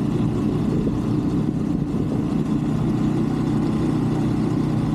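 125cc Brixton motorbike engine running at a steady speed while riding.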